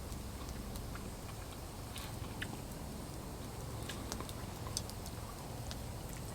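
A person chewing a mouthful of pork and noodle stir-fry, with faint scattered clicks and ticks.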